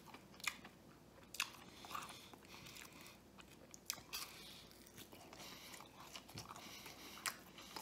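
A man biting and chewing a fried, breaded mozzarella stick: faint chewing with a few short, sharp crunches scattered through.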